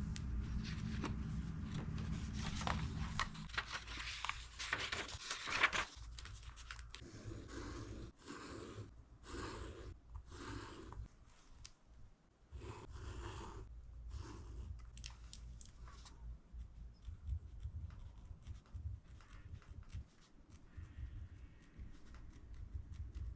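Paper handling and marking while annotating a book: a stretch of rustling paper, then a run of about eight separate swiping strokes across the page, then quieter scattered scratches and ticks of a pen.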